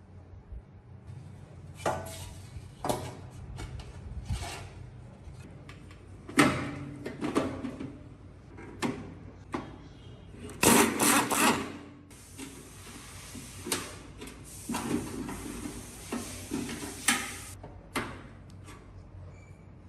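Hand work on metal appliance parts: irregular knocks, scrapes and rattles of tools and parts being handled. The loudest clatter comes about halfway through, followed by a longer stretch of rasping.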